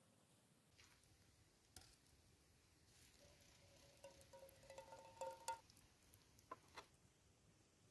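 Near silence with a few faint clicks and taps, and a faint steady tone lasting about two seconds in the middle.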